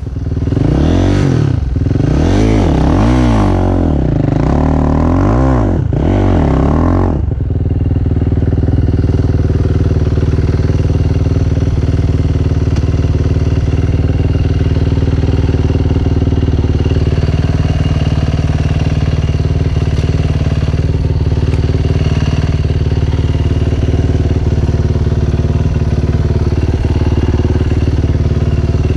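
Dirt bike engine coming in suddenly and being revved up and down about four times over the first seven seconds, then running steadily at one speed.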